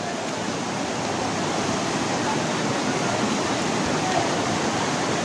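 Monsoon-swollen waterfall: water falling and rushing in a steady, even noise that builds slightly.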